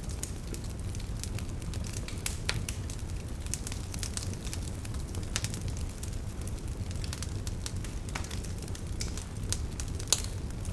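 Wood fire crackling: a steady low rumble of flames with scattered sharp pops and snaps, the loudest pop near the end.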